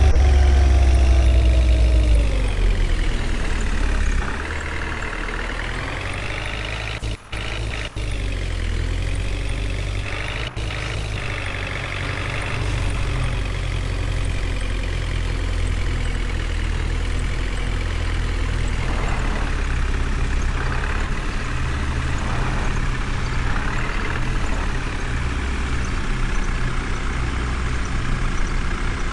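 Heavy truck engine running, its pitch rising and falling as it revs in the first ten seconds, then steadier; the sound cuts out briefly three times around seven to ten seconds in.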